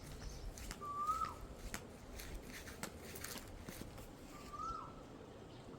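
A bird giving a short whistled call twice, a single note that rises slightly and then drops away, about three and a half seconds apart. Faint clicks and low background noise underneath.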